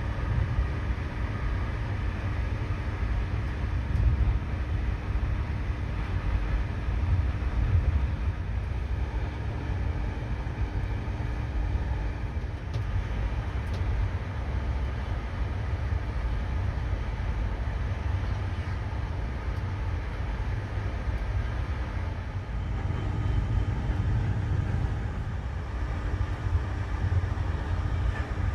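Passenger train running: a steady low rumble with a faint steady hum.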